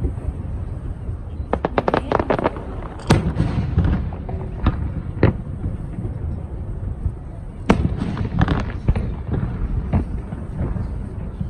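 Aerial fireworks bursting: single sharp bangs a second or two apart, with quick clusters of crackling pops about two seconds in and again near eight seconds, over a steady low background.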